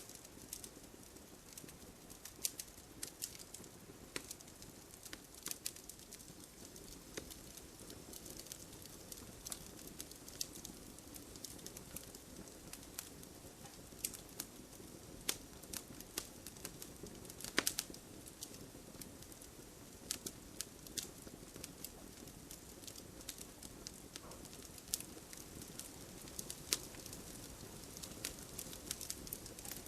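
Wood fire in a fireplace crackling, with irregular sharp pops over a low steady hiss of the flames.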